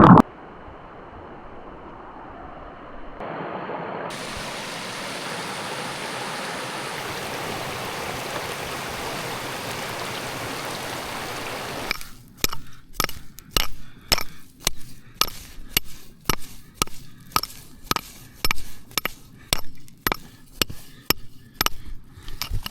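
Steady rushing of running creek water, then from about halfway a run of sharp knocks, roughly two a second, each with a short ring.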